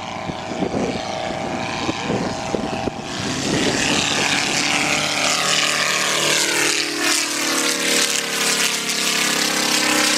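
Engine and propeller of a Fokker triplane replica flying by low, growing louder about three seconds in, with a sweep that falls in pitch as it passes.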